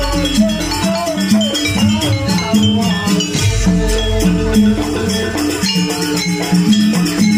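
Jaranan gamelan music: a fast repeating pattern of pitched metal notes over drums, with deep low swells about every three to four seconds.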